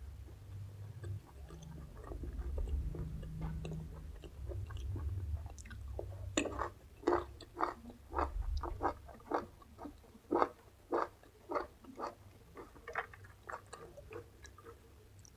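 Close-miked chewing of crisp raw vegetables. A low rumble with soft chewing comes first; then, from about six seconds in, a run of crunchy bites and chews comes about twice a second.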